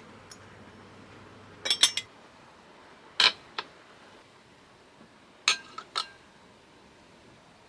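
Small hard objects being handled and set down inside a van: short clicks and clinks in three quick groups over a faint steady hiss.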